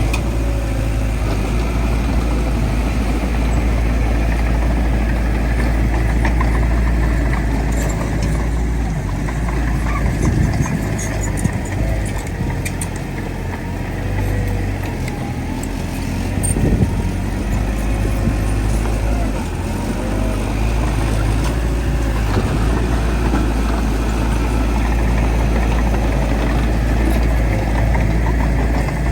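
Heavy diesel earthmoving machinery, a bulldozer working with dump trucks, running steadily with a deep rumble. There are scattered clanks in the middle and one sharper knock about two-thirds of the way through.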